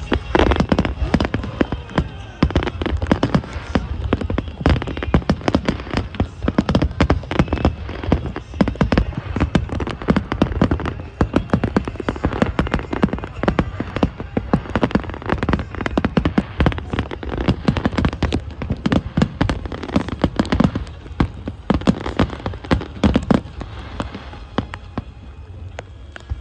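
Fireworks going off in a rapid, continuous barrage of bursts and crackles.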